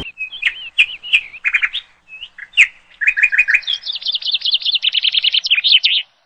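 Bird chirping: scattered short high chirps, then from about halfway a fast run of rapidly repeated notes that cuts off suddenly near the end.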